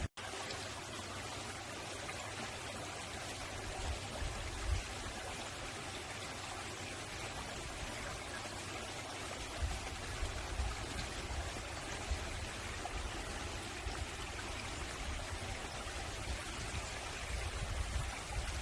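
A mountain-valley stream running over rocks in a steady rush of water.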